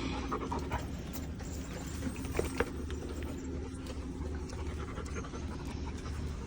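Labrador panting steadily, with a couple of short clicks about two and a half seconds in.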